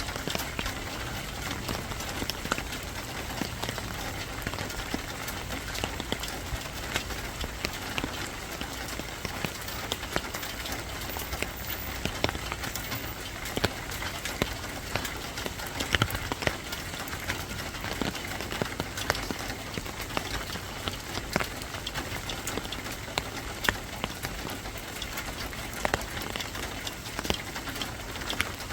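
Steady rain falling, with many separate sharp drops striking a surface throughout.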